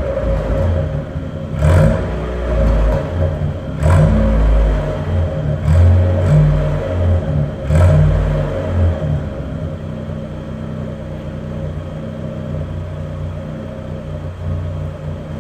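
Opel Corsa B 1.2i four-cylinder petrol engine blipped four times, about every two seconds, then settling to a steady idle. It runs through a straight exhaust with only the rear silencer.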